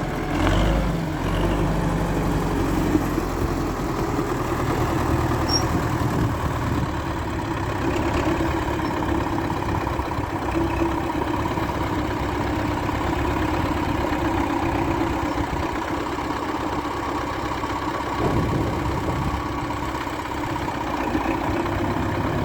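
MTZ-82 tractor's four-cylinder diesel engine running steadily.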